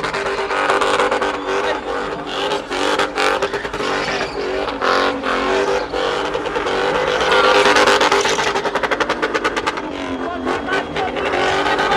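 Car engine running at high revs, with tyre squeal. It stutters rapidly for a couple of seconds after the middle.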